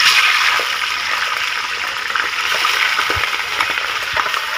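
Raw chicken pieces sizzling in hot oil in a steel pot as they are tipped in: a steady, high hiss with light crackles.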